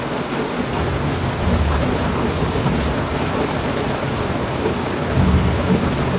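Heavy rain falling steadily, with two short low rumbles of thunder: one about a second and a half in, and another about five seconds in.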